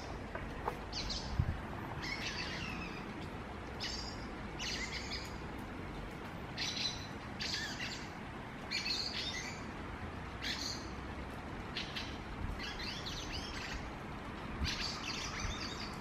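A bird chirping over and over: short, high calls, some with quick pitch sweeps, about one a second.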